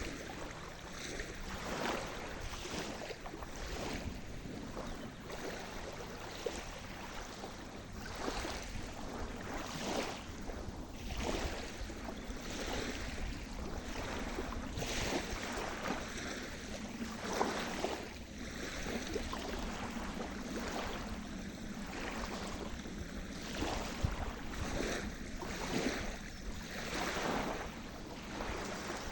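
Sea surf: small waves breaking and washing in one after another, a steady rushing hiss that swells every second or two over a low rumble.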